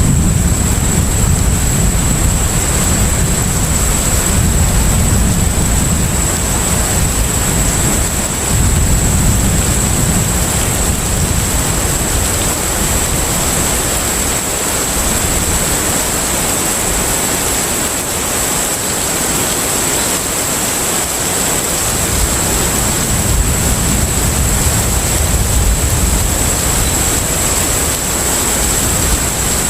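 Container ship at sea: a steady wash of noise over a low rumble that swells and eases, weakening for several seconds in the middle, with a thin steady high-pitched tone on top.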